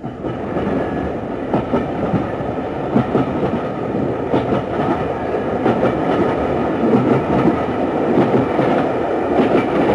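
Train running on the rails, heard from inside a carriage: a steady rumble with irregular clacks of the wheels over the rail joints. It comes in suddenly at the start.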